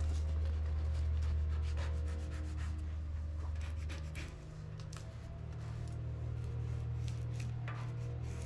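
Vinyl decal being rubbed and pressed down by hand onto a painted panel: irregular scratchy rubbing and crinkling strokes over a steady low hum.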